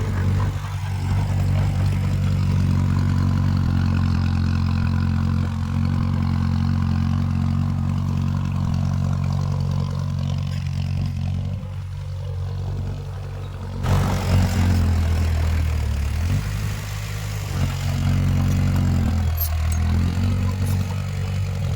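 Heavy diesel engine of earthmoving machinery running steadily, with a sudden louder, harsher rise about fourteen seconds in that eases off again.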